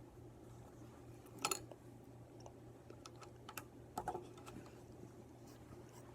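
Light clicks and taps of wooden popsicle sticks being handled and set down on a table, a sharp double tap about one and a half seconds in and a few more around four seconds in, over a steady low hum.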